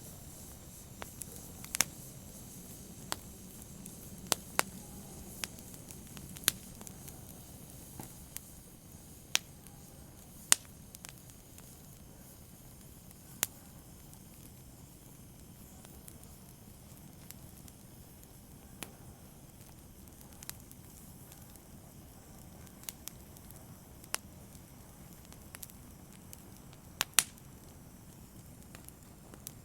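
Wood fire crackling, with irregular sharp pops and snaps over a low steady hiss of burning. The pops come thicker in the first half, sparser later, with a loud pair of snaps near the end.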